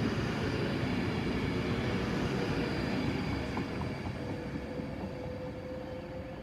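Class 390 Pendolino electric train running at the platform: a broad rumble that slowly fades, with a steady whine that rises a little in pitch from about four seconds in.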